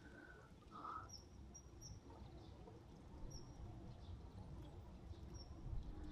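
Faint outdoor ambience: a low rumble with a few short, high chirps from a small bird, several in the first two seconds and one or two later.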